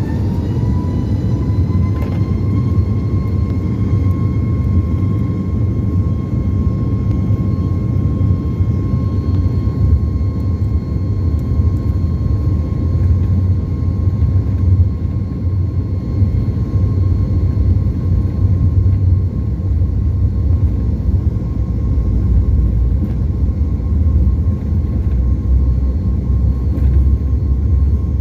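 Jet airliner engines heard from inside the cabin at takeoff: a loud, steady low rumble with a high whine that rises slightly in pitch over the first few seconds, then holds steady as the engines reach takeoff thrust.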